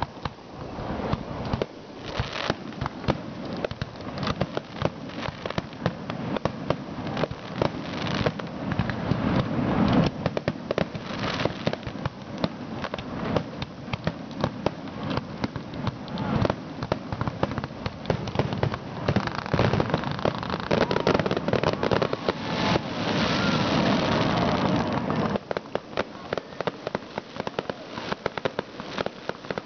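A fireworks finale: a rapid, continuous barrage of overlapping bangs and crackles. About 25 seconds in the deeper booms ease off, leaving mostly sharp crackling.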